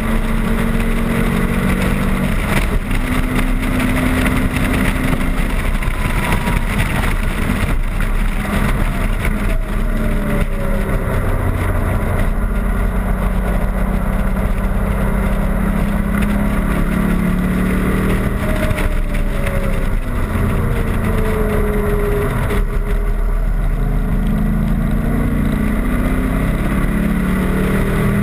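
Factory Five Racing Cobra replica's V8 engine running hard at racing speed, heard from the open cockpit with wind rush. The engine note changes through the lap and slides down in pitch a few times as the car slows.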